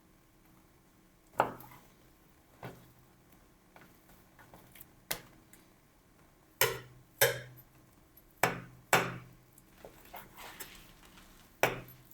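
Kitchenware handled on a counter: about eight sharp knocks and clinks, irregularly spaced, each ringing briefly. The loudest come in pairs about halfway through and near the end.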